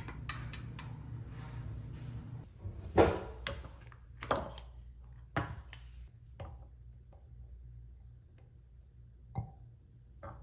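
A series of light knocks and taps, irregular and a second or so apart, the loudest about three seconds in, over a faint low hum.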